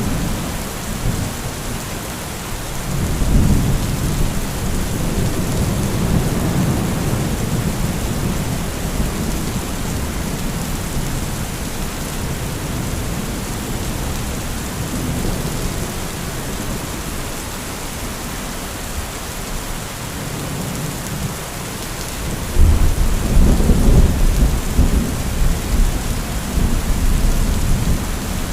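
Steady heavy rain with rolling thunder: a low rumble swells about three seconds in and fades over several seconds, then a louder, closer peal breaks out near the end and rumbles on.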